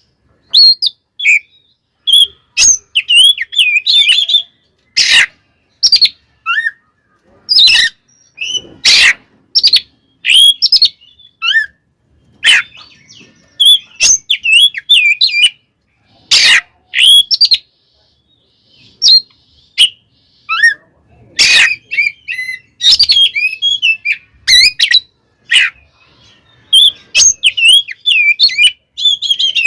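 Oriental magpie-robin (kacer) singing loudly in bursts of fast whistled phrases, with sharp harsh notes among them and short pauses between bursts. This is the agitated, combative song a male gives when roused to fight.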